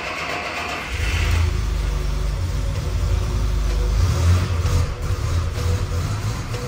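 A 1958 Mercedes engine being started: about a second of starter cranking, then the engine catches and runs with a deep, steady rumble.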